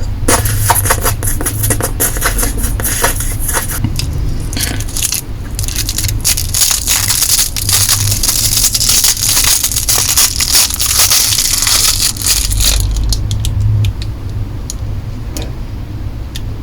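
Plastic lollipop wrappers being crinkled and torn open, a dense crackling that thins to scattered crinkles for the last few seconds. Close-miked lollipop eating sounds fill the first few seconds.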